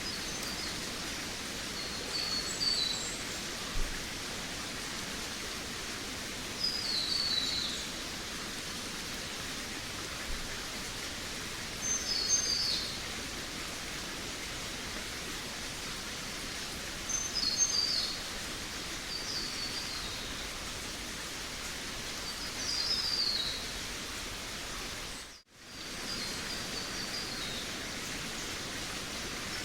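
Forest ambience: a bird singing short, falling, chirping phrases about every five seconds over a steady hiss of background noise. The sound cuts out for a split second about 25 seconds in.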